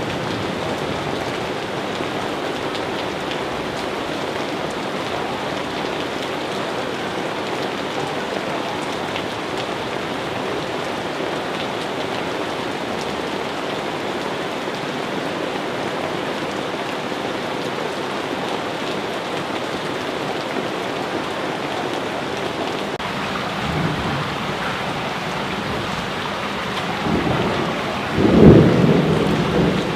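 Steady rain falling, with rumbles of thunder in the last few seconds. The loudest rumble comes about a second and a half before the end.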